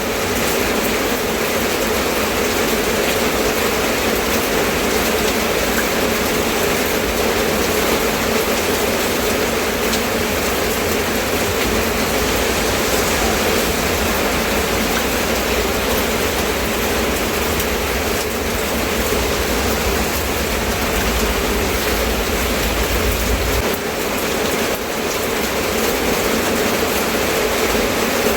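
Steady rain falling, an even hiss with no breaks. A low rumble underneath builds for a stretch in the middle and stops abruptly.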